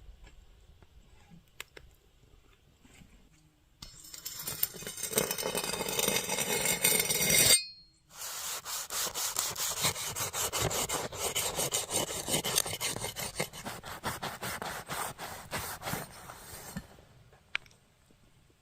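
Rasping, scraping strokes: a few seconds of rubbing that grows louder, a brief stop, then a long run of quick strokes, several a second.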